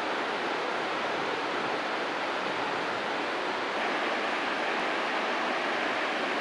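Steady rush of a large waterfall: an even, unbroken roar of falling water.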